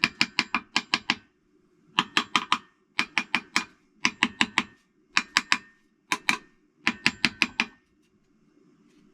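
Hammer lightly tapping the oil pump onto the front of a Toyota 4A-GE engine to seat it: seven quick bursts of a few sharp taps each, with short pauses between.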